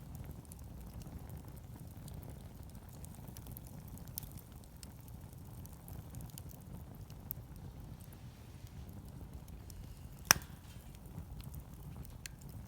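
Wood campfire crackling, with scattered small ticks over a steady low rumble and one loud sharp pop about ten seconds in.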